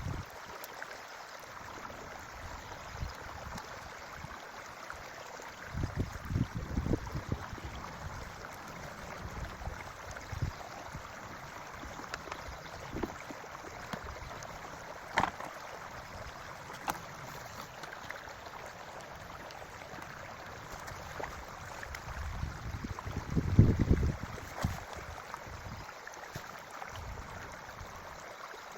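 Forest creek flowing steadily. Two low rumbles hit the microphone, one about six seconds in and a louder one near the end, and there is a single sharp click about halfway through.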